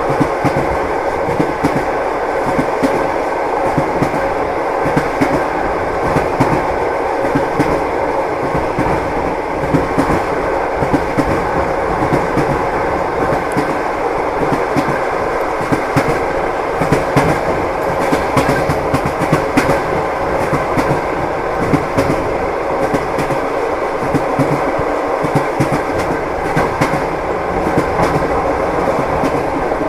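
Train running along the track, its wheels clattering over the rail joints in a steady, continuous rumble and clack, with a faint steady hum.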